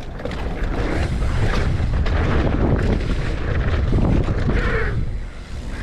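Wind rushing over the camera microphone of a mountain biker riding at speed, a steady loud buffeting that is strongest in the low end.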